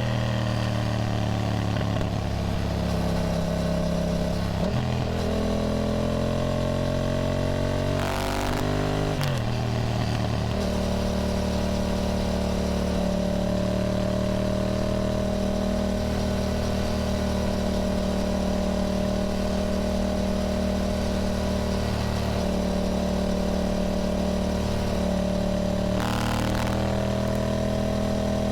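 Yamaha motorcycle engine running under way at steady cruising revs. Its pitch eases down slowly at first, dips sharply about eight seconds in, and changes briefly again near the end.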